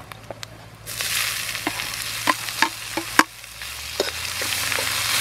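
Small snails in their shells sizzling loudly as they are scraped with a metal spoon from a plate into a hot metal pan, with sharp clicks and clinks of spoon and shells. The sizzle starts about a second in, dips briefly past the middle and swells again.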